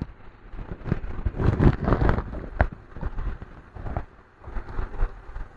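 Irregular clicks, taps and rustling as the broken plastic casing of a laptop is handled during a hinge repair, with one sharper click about two and a half seconds in.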